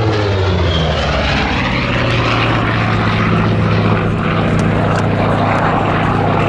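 Grumman F8F Bearcat's Pratt & Whitney R-2800 radial engine and propeller droning steadily in flight during an aerobatic display.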